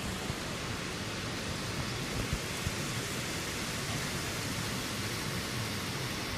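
Typhoon wind and driving rain making a steady, even rushing noise with no breaks.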